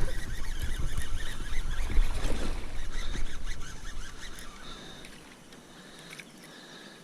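Kayak and water noise: an uneven low rumble with a few knocks that dies down after about four and a half seconds, leaving quieter open-air background.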